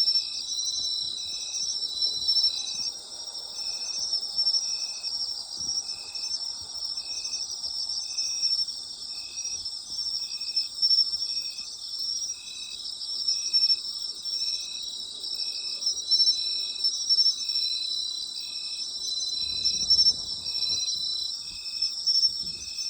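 Night chorus of singing insects: a dense, high, continuous trilling, with one insect chirping in a steady, even rhythm of about three chirps every two seconds.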